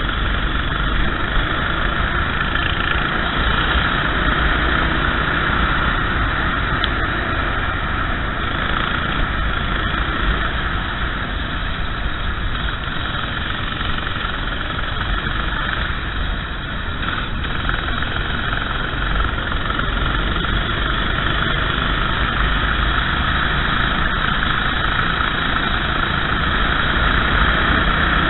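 Racing kart engine running steadily under way on a wet track, buried in a dense, even rush of wind and spray noise.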